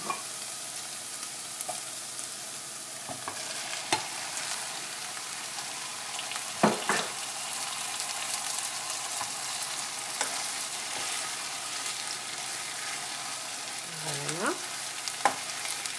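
Minced beef and onion mixture sizzling in a pot, with a wooden spoon stirring and a few sharp knocks against the pot, the loudest about seven seconds in.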